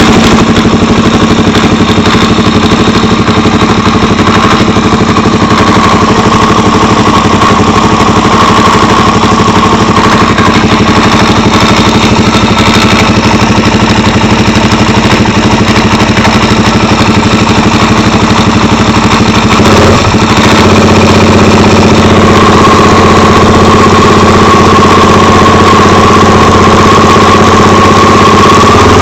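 Suzuki DR-Z400 single-cylinder four-stroke engine idling with a knocking rattle, the fault the owner is tracing. About two-thirds of the way through, the engine note changes and gets a little louder.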